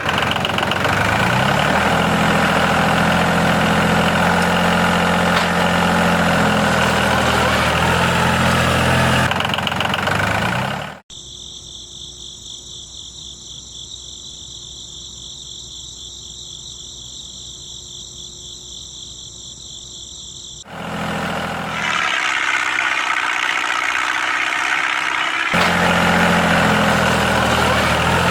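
A small engine running steadily. About eleven seconds in it cuts off abruptly and a quieter, steady high whine takes its place. Some ten seconds later louder noise returns, and the engine sound is back near the end.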